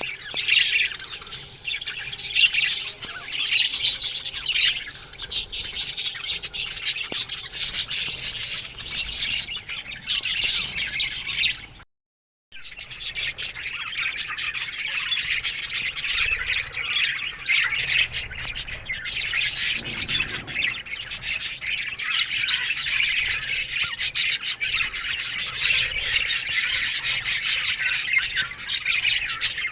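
A flock of budgerigars chirping and chattering continuously, many birds at once. The sound cuts out completely for about half a second a little before halfway, then resumes.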